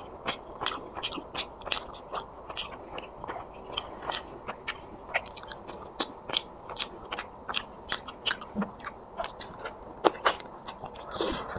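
Close-miked eating sounds: chewing a curry meal, with wet smacking clicks of the lips and mouth coming irregularly, several a second.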